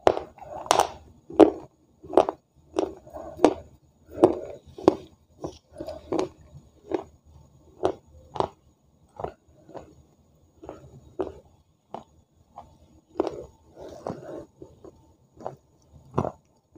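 A person chewing food close to the microphone, with lip-smacking and crunching strokes at about one and a half a second.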